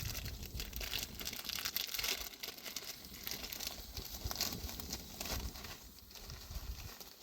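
Irregular crinkling and rustling, many small crackles close together, as of something being handled or crumpled.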